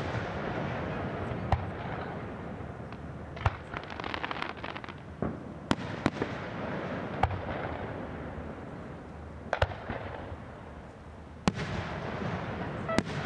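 Aerial firework shells bursting one after another: about ten sharp bangs, each trailing off in an echo, with a stretch of crackling about four seconds in.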